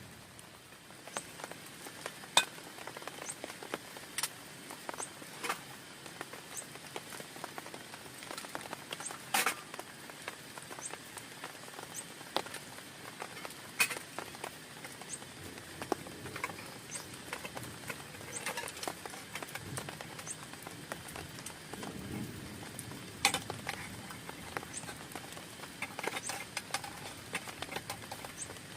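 Rain on a tent's fabric: a light steady hiss with many single drops tapping irregularly, some much louder than others. A soft low rumble comes and goes about three quarters of the way through.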